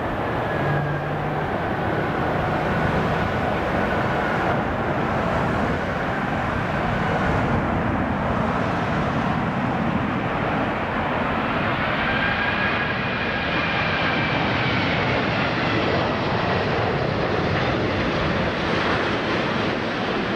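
Airbus A380-841 jet engines (Rolls-Royce Trent 900 turbofans) making a steady, even roar. A thin fan whine over the roar falls slowly in pitch, then rises again about halfway through.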